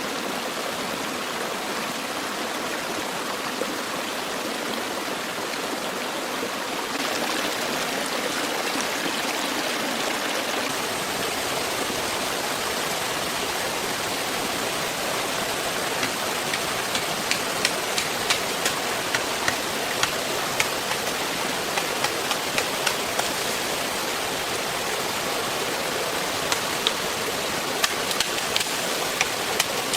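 Stream water rushing steadily, growing louder and brighter about seven seconds in. From about halfway, irregular sharp ticks, about one a second, sound over the rush.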